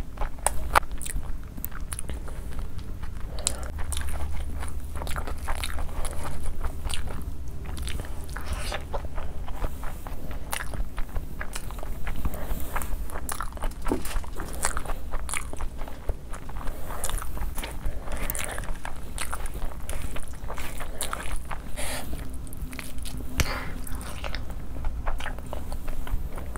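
Close-up eating sounds: chewing and biting mouthfuls of fried rice and curry eaten by hand, with many short wet clicks and crunches, over a low steady hum.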